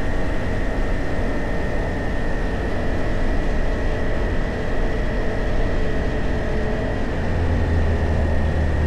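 Motorcycle engine running steadily while the bike is ridden, picked up by a camera on the bike, with a low rumble that grows stronger about seven seconds in.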